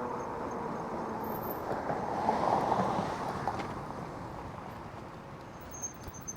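Traffic and road noise heard while riding an e-bike, a steady rushing that swells about two seconds in and then fades.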